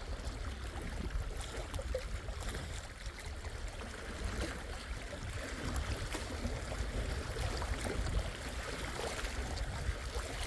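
Gentle Lake Superior waves lapping at the shore: a steady wash of water with small scattered splashes over a low rumble.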